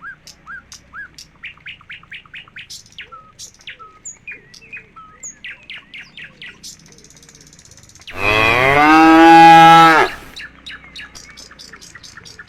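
Small birds chirping in quick repeated notes, then about eight seconds in a village cow gives one long, loud moo lasting about two seconds.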